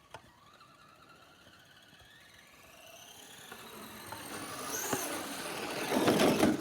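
Traxxas Slash RC truck's brushed electric motor whining, rising in pitch and growing steadily louder as the truck speeds closer, with a loud scuffing rush of tires in snow near the end.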